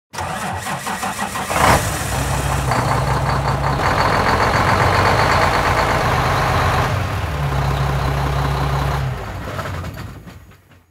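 A truck engine starts with a sharp catch about a second and a half in, then runs steadily at idle. It fades out near the end.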